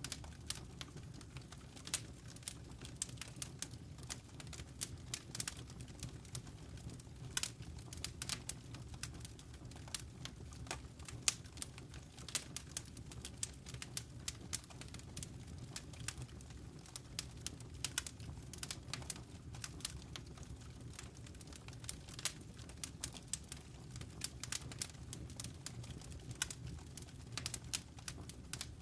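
Fireplace fire crackling: frequent irregular sharp pops and snaps over a low, steady rumble of the flames.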